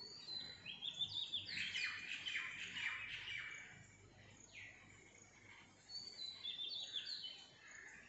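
Birds chirping in two bursts of quick, high chirps that step down in pitch. The first runs from about half a second to three and a half seconds in, and the second comes around six to seven seconds in.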